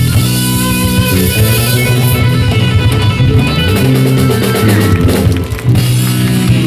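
Live rock band playing loudly: electric guitars over bass and a drum kit.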